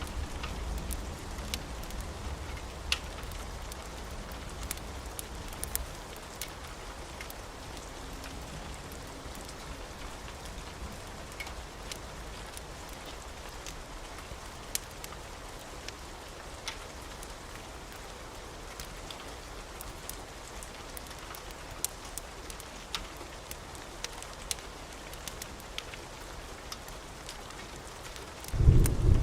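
Wood fire crackling, with sharp pops scattered over a steady hiss of what may be rain. A low rumble dies away over the first few seconds, and a loud rumble of thunder starts just before the end.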